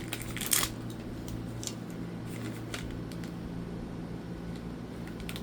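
Individual plastic snack packet being opened and handled: a short rustle about half a second in, then a few faint crackles over a low steady hum.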